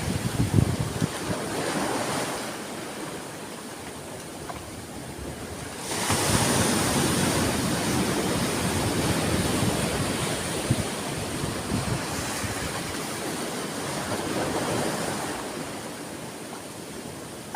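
Sea waves breaking and washing ashore in a steady hiss of surf. One wave surges in suddenly about six seconds in, with smaller swells before and after.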